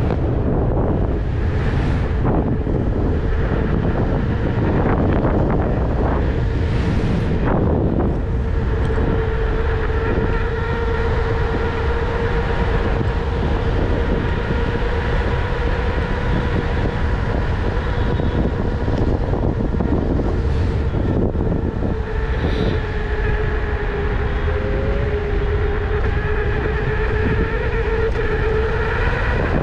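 Electric unicycle on the move: steady rushing wind and rolling noise, joined about eight seconds in by a steady whine that holds to the end.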